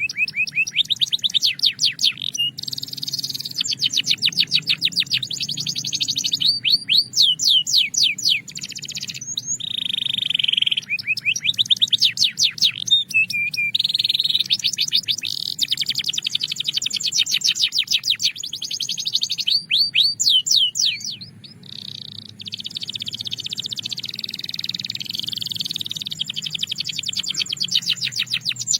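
Belgian canary singing a long, continuous song of fast trills and rolls, rapid repeated sweeping notes broken by held high tones, with a brief lull about two-thirds of the way through.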